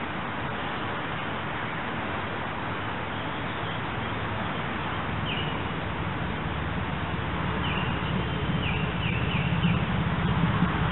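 Birds chirping over a steady outdoor hiss: one short call about halfway through, then a quick run of four or five chirps near the end. A low rumble swells through the second half.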